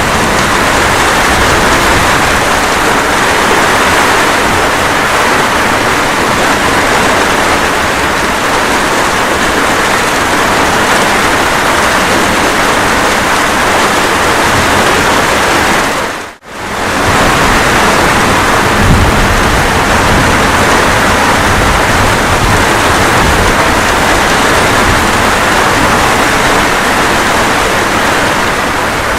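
Steady rain falling, a dense even hiss. About halfway through it drops out to near silence for a split second and fades straight back in.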